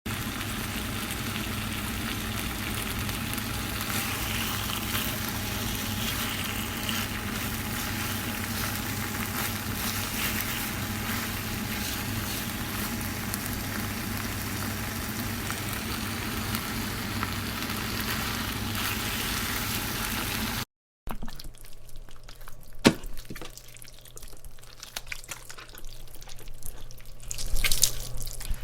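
Meat frying: a dense, steady sizzle and crackle for about twenty seconds that cuts off suddenly. A quieter stretch of wet sounds with scattered clicks and a low hum follows.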